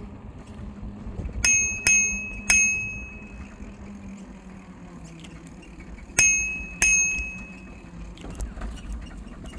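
Bicycle bell rung three quick times, then twice more about four seconds later, each ring fading briefly, over the steady rumble of riding.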